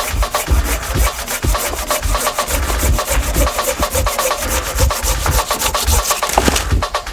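Silky Gomboy Curve pruning saw cutting through a wooden branch in quick back-and-forth strokes; the sawing stops near the end.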